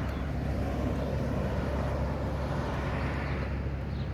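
Steady low rumble of vehicle traffic, with a broad whooshing noise that swells and eases.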